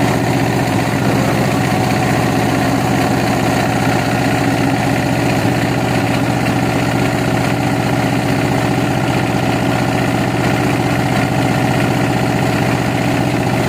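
A sawmill's engine running steadily at idle, an even hum that holds the same pitch throughout.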